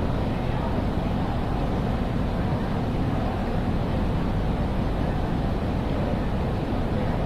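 Ambience of a large railway station hall: a steady, even low rumble with an indistinct murmur and no distinct events.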